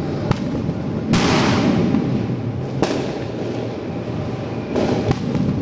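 Fireworks and firecrackers going off in the street in separate sharp bangs. One comes a third of a second in, another at about a second followed by roughly a second of crackling, one near three seconds, and two close together near the end.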